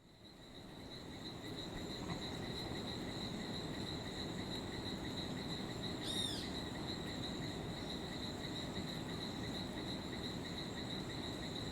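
Steady high-pitched chirring of insects in forest ambience, fading in at the start, with one brief sweeping chirp about six seconds in.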